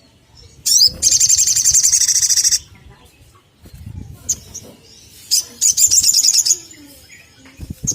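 Olive-backed sunbird singing: a fast, high trill lasting about two seconds begins a second in. Single sharp chirps follow, then a second, shorter trill a little past the middle.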